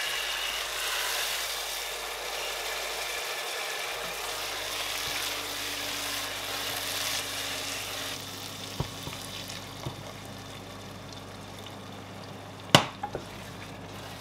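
Egusi (ground melon seed) paste sizzling as it fries in oil in a stainless steel pot, with a wooden spoon stirring and scraping through it. The sizzle eases off after about eight seconds, and there are a few light clicks and one sharp knock near the end.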